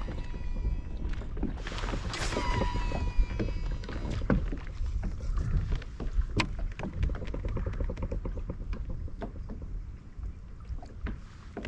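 Sounds of a fishing kayak on the water: scattered knocks and clicks of gear against the hull over a low rumble of wind and water on the microphone. About two seconds in there is a brief whine falling in pitch, and later a run of quick, even ticks.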